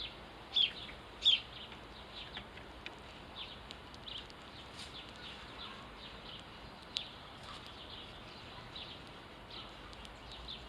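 House sparrows chirping, a steady run of short chirps, with two louder ones about a second in.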